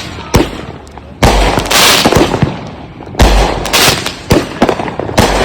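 Consumer aerial firework cakes going off: a string of sharp bangs and booming shell bursts with crackling between them. The two heaviest booms land about a second in and again about two seconds later.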